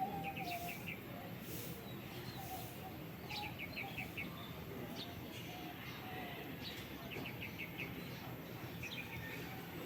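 A small bird calling in short, rapid bursts of four to six high chirps, repeated about four times, over steady background noise.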